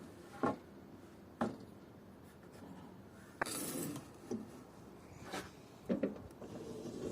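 Wooden workpieces being handled on a bench: several light knocks and one short scraping rub about halfway through.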